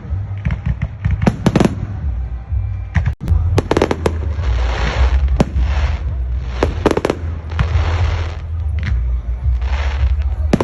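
Fireworks going off: quick clusters of sharp bangs alternating with hissing, crackling bursts over a steady low rumble, with a brief drop-out about three seconds in.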